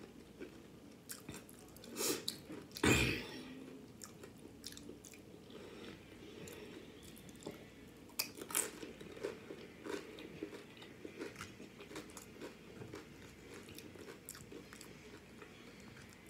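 Close-up chewing and crunching of Flamin' Hot Doritos nachos, some chips soaked soft in salsa, with irregular crisp bites and mouth sounds. The loudest crunch comes about three seconds in.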